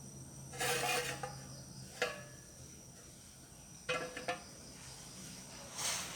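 Kitchenware clinking and clattering: a ringing clatter about half a second in, a single knock at two seconds, and a quick run of clinks about four seconds in. Insects keep up a steady high trill behind them.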